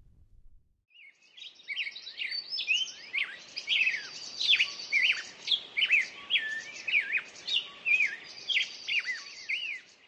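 A songbird singing a fast, continuous run of whistled, down-slurred notes, starting about a second in, over a faint outdoor hiss.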